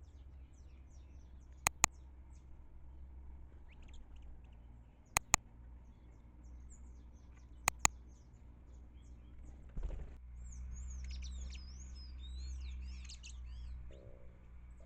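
Small birds chirping and twittering at a feeder, faint at first and livelier for several seconds in the second half. Three sharp double clicks, about three seconds apart, are the loudest sounds, over a steady low rumble.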